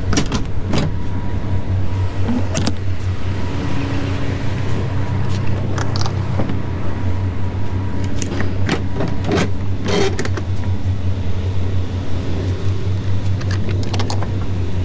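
Semi truck's diesel engine running steadily with a low hum, with a scatter of sharp clicks and rattles over it.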